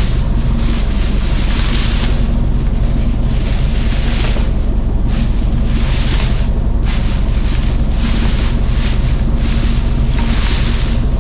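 Tractor engine running steadily while baling hay, with wind gusting on the microphone in waves every second or two.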